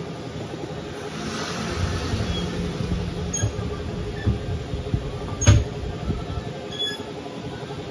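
Scooter engine running steadily with a low hum, with a few light clicks and one sharp knock about five and a half seconds in.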